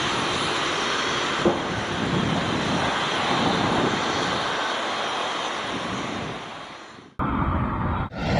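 Airbus A340 jet engine running with a steady noise, fading out about seven seconds in. After a sudden cut, a different aircraft's engine noise follows, heavier in the low end.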